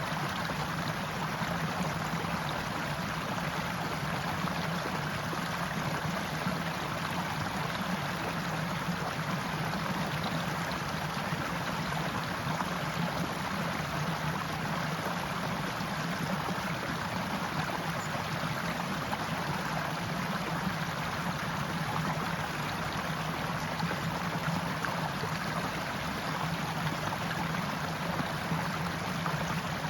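Stream water running steadily, an even unbroken rush with a low steady undertone beneath it.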